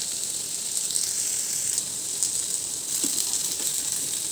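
Potato cubes and cumin seeds sizzling steadily as they fry in hot oil in a kadhai, the potatoes beginning to brown.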